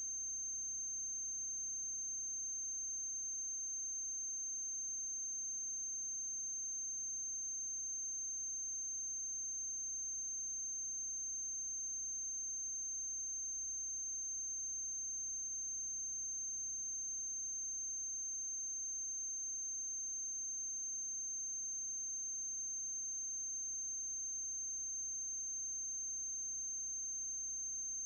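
Steady high-pitched whine over faint electrical hum and hiss, unchanging throughout: background noise from the transfer of a silent film, with no other sound.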